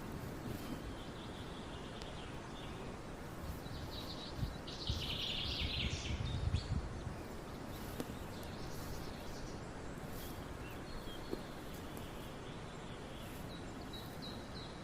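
Wild birds chirping and calling over steady outdoor background noise, with a denser run of chirps about five seconds in, joined by a low rumble.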